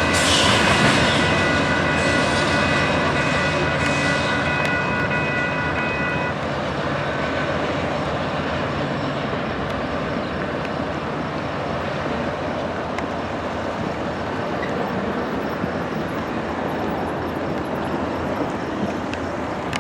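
Freight train rolling past, a steady rumble and rattle of cars on the rails. A high steady whine sounds with it for the first six seconds or so, then stops.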